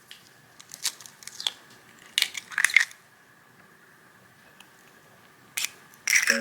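Crinkling and crunching handling noises in short bursts, in about four clusters.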